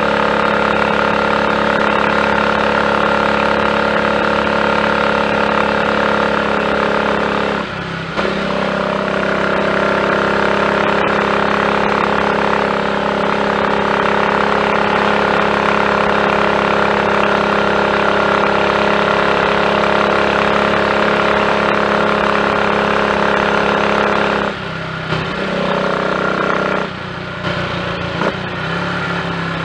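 Triumph Tiger Cub's 199 cc single-cylinder four-stroke engine running steadily under load on the road, firing cleanly without misfiring on its new Zenith carburettor slide, needle and jets. The note breaks briefly about eight seconds in, then runs steady again. Near the end the throttle eases off and the note drops and varies.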